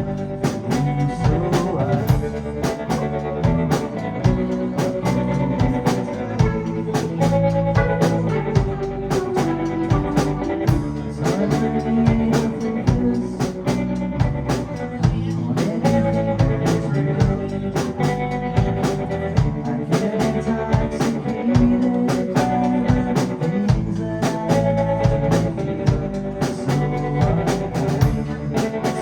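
Live band playing a song: drum kit keeping a steady beat under electric guitar, bass and keyboards.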